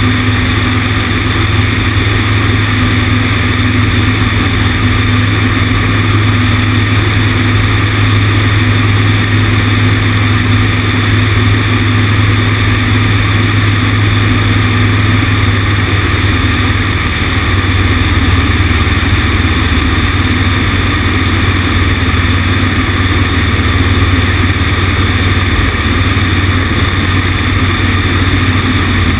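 Cessna 150's four-cylinder Continental O-200 engine and propeller running steadily, with wind rushing over the wing-mounted microphone. The engine note drops slightly about halfway through.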